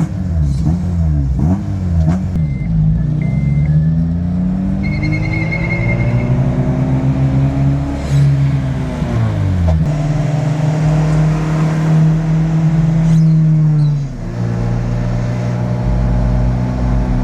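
Car engine pulling under acceleration, its pitch climbing and falling several times as it changes gears, then running at a steady cruise with a short lift-off about 14 seconds in.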